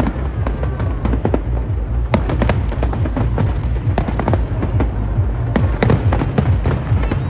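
Fireworks going off in quick, irregular succession, sharp bangs and crackles one after another, with music playing underneath.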